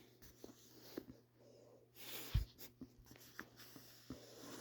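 Pages of a book being handled and turned: soft paper rustling with small scattered ticks, and a dull low thump about two and a half seconds in.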